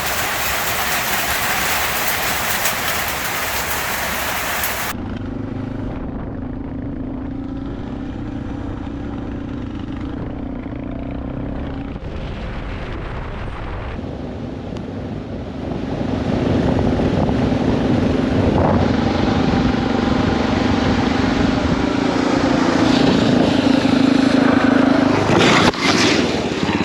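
A hiss of hail and rain for the first few seconds. Then a Suzuki DR650's single-cylinder engine runs steadily under riding, growing louder about two-thirds of the way in. A sharp knock comes near the end.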